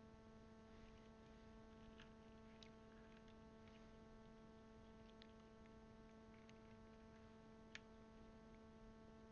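Near silence: a steady faint electrical hum, with a few scattered faint clicks of plastic keycaps being handled and pressed onto the keyboard's switches, one a little sharper near the end.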